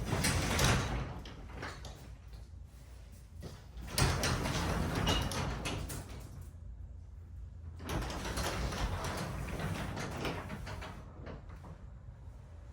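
Sectional garage door moved by hand along its tracks, the rollers and panels rumbling in three spells of movement with short pauses between. It is a balance check after the torsion springs were rewound and the lift cables reset.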